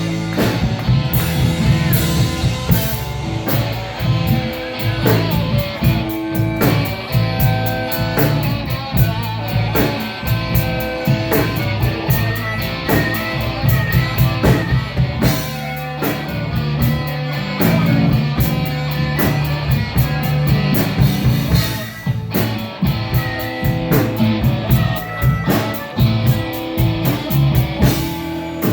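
Rock band playing: guitar over a drum kit beat.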